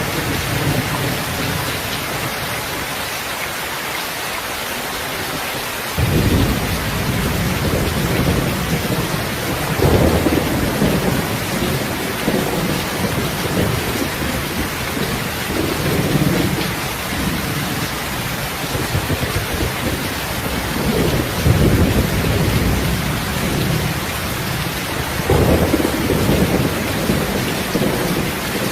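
Steady rain hiss with low rolling thunder. The rumble sets in suddenly about six seconds in and swells again several times.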